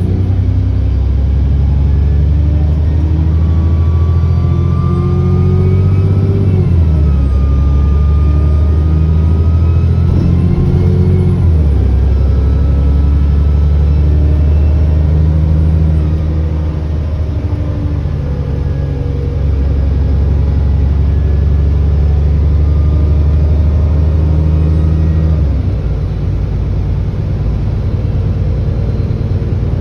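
ADL Enviro400 double-decker bus engine pulling, heard from on board, with a whining turbo. The engine note rises and then steps down at gear changes a few times. A thin whistle glides up and down over the engine during the first half.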